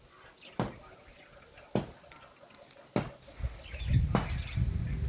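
Four sharp knocks about a second apart, then a low rumble that builds over the last second and a half.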